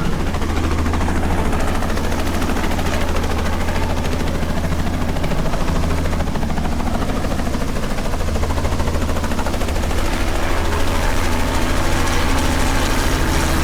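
Helicopter running steadily overhead: a continuous engine drone with the rapid chop of the rotor blades.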